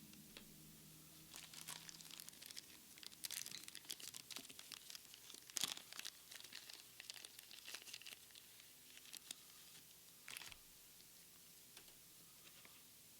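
Foil booster pack crinkling and being torn open by gloved hands: a run of quiet crackles lasting several seconds, with one sharper rip about halfway through, then a brief crinkle near the end.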